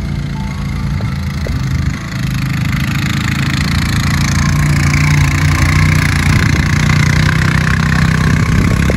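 Quad bike engine running steadily, getting louder from about two seconds in and then holding.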